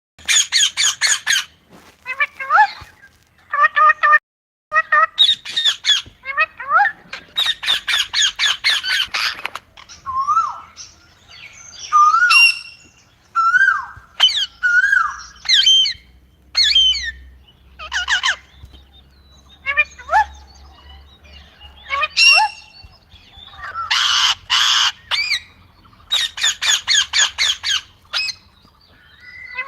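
Pet parrot calling: runs of rapid harsh squawks, several a second, alternating with short rising and falling whistles and chirps.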